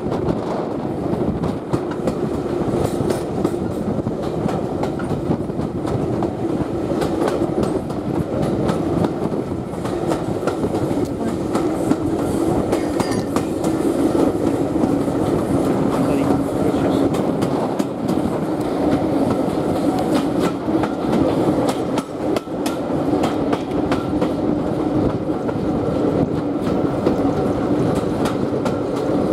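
Coaches of a steam-hauled heritage train running along the line, heard from an open carriage window: a steady rumble with the wheels clicking over rail joints.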